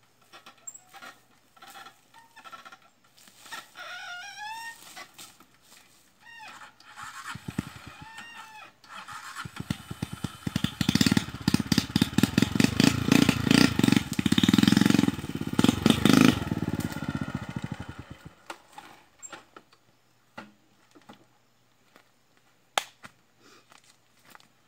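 Honda Titan motorcycle's single-cylinder engine starting with a few uneven firings, then running and revved up in a rapid string of firing pulses for about eight seconds before cutting off abruptly.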